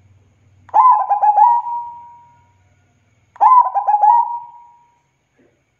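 Zebra dove (perkutut) cooing: two phrases, each a quick run of short dipping notes ending in a longer held note that fades out.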